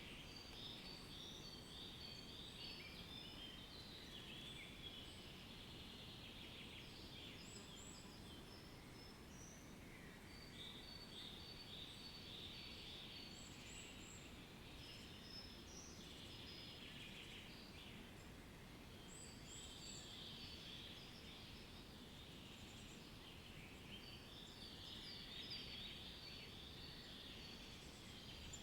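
Many small birds chirping and twittering continuously, with short overlapping calls, over a faint steady background hiss.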